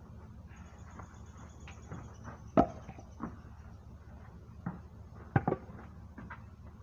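Sawmill butt-end log pieces being unloaded by hand and dropped onto a pile: a series of short wooden knocks and thuds. The loudest comes a little over two and a half seconds in, with two more close together about five and a half seconds in.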